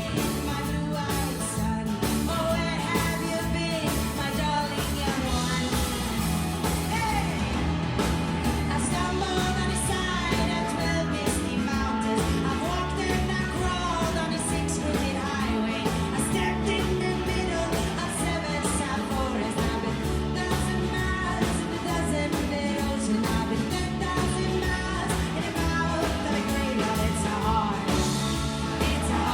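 Live rock band playing with singing.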